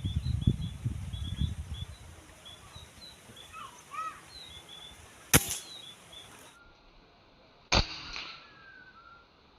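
A sharp shot rings out about halfway through, with a second, quieter crack a couple of seconds later, while small birds chirp repeatedly. A low rumble fills the first two seconds.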